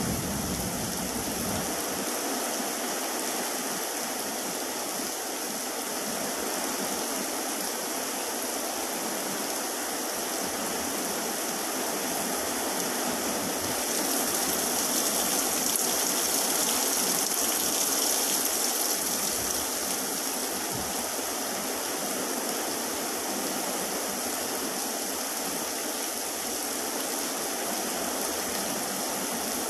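Heavy rain falling steadily in a downpour, a continuous hiss that swells louder for a few seconds midway before easing back. A low rumble dies away in the first couple of seconds.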